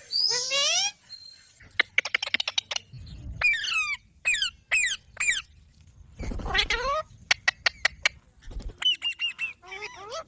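Pet green parrot calling in a string of squawks and short chirps that fall in pitch, broken up twice by quick runs of rapid clicking chatter.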